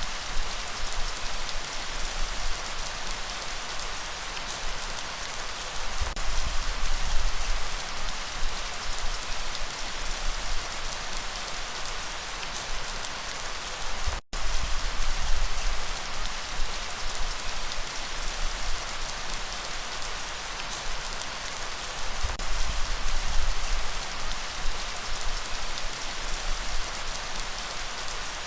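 Steady rainfall, its level swelling and easing, with a momentary break in the sound about halfway through.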